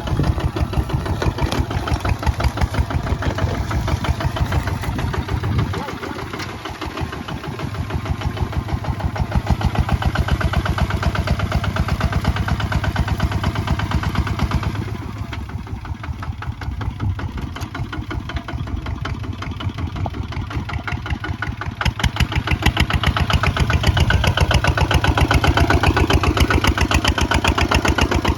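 Kubota ZT155 single-cylinder diesel engine running with a rapid, even firing beat. Its speed and loudness rise and fall, dropping back twice and running loudest over the last several seconds.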